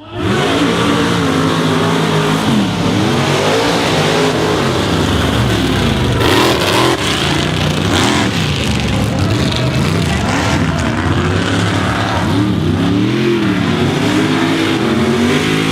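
Mega truck's engine revving hard at full throttle, its pitch climbing and dropping again and again. There are harsher noisy stretches about six to eight seconds in.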